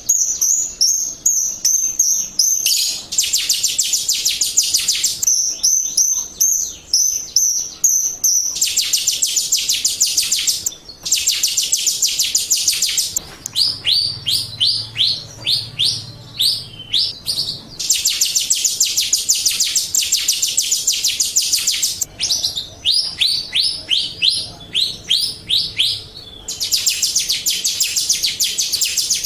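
Jalak rio starling song played as a lure recording: stretches of a few seconds of dense, rapid high-pitched chattering alternate with runs of quick falling whistles, about three or four a second.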